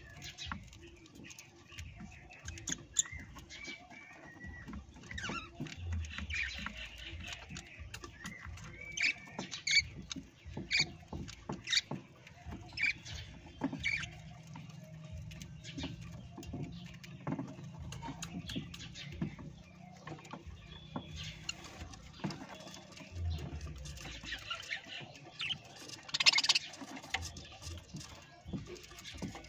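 Parrots chirping in short, quick calls, mixed with many small clicks and scratching sounds.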